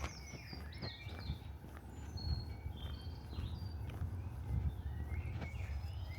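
Small birds singing, a run of short high whistled notes, some sliding down in pitch, with a few footsteps of someone walking.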